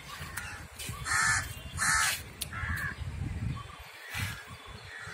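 Bird giving about four short, harsh calls, the two loudest about one and two seconds in, over a low rumble.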